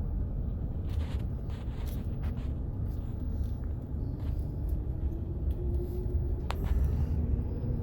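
Car rolling slowly, heard from inside the cabin: a steady low rumble of engine and tyres, with the engine note rising gradually in pitch over the second half as it picks up a little speed. A single sharp click about six and a half seconds in.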